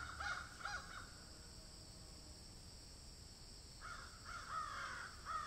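A bird calling in quick repeated notes, about three a second: one run that stops about a second in, then another run beginning about four seconds in.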